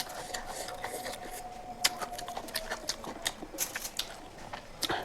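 Close-miked chewing and mouth sounds of someone eating, with many small irregular clicks and smacks. A faint steady tone runs under them for the first three seconds or so.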